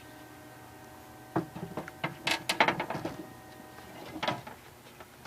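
Glass back glass of a pinball machine being slid into the backbox and set in place: a clatter of knocks and scrapes, loudest in the middle, then a last knock near the end, over the machine's steady hum.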